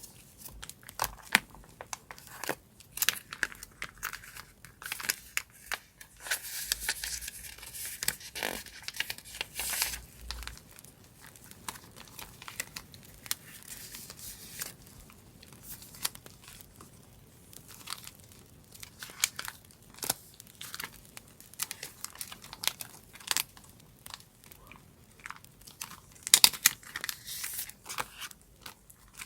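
Paper being handled for a scrapbook journal: scattered rustles, crinkles and small tearing sounds, with a longer stretch of tearing about six to ten seconds in.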